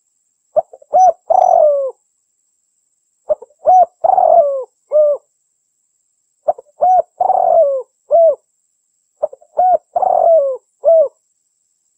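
Female spotted dove (derkuku) cooing: four repeated phrases, each a quick run of short coos with one longer coo that falls in pitch, about every three seconds.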